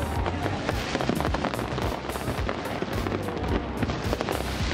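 Fireworks going off in rapid succession: a dense crackling of many small bangs over repeated deep booms, with music underneath.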